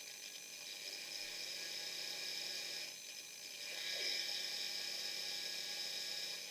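A small motor running steadily with a whir, getting louder about four seconds in.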